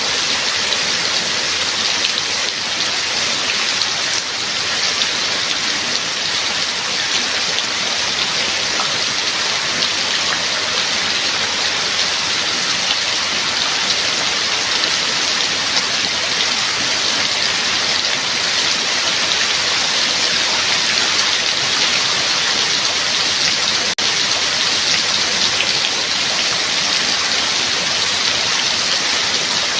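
Steady heavy rainfall, an even hiss of rain with no breaks.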